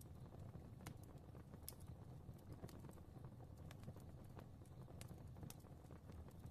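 Fire crackling faintly in a fireplace: irregular sharp pops and ticks scattered over a low, steady rumble of the flames.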